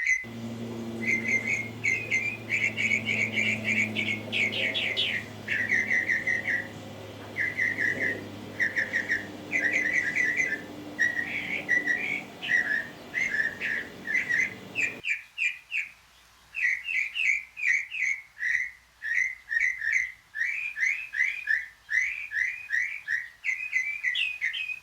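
A bird calling in rapid runs of short whistled notes, each dropping slightly in pitch, with brief gaps between the runs. A low steady hum sits underneath for the first half and cuts off suddenly about fifteen seconds in.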